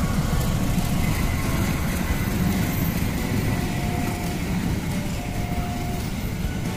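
Passenger train passing close by, its diesel locomotive moving out of the picture and the coaches rolling past: a steady low rumble of engine and wheels on the rails.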